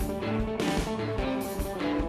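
Rock music led by electric guitar, over a steady drum beat.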